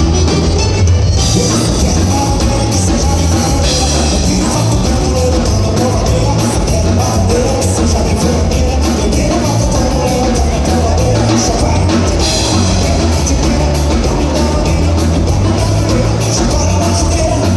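Live band playing a vanera, the gaúcho dance rhythm, loud and steady with a strong bass line and some singing.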